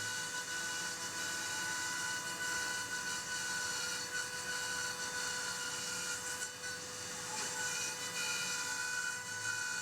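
CNC milling machine cutting polyethylene foam: the spindle gives a steady whine over the hiss of the cutter in the foam.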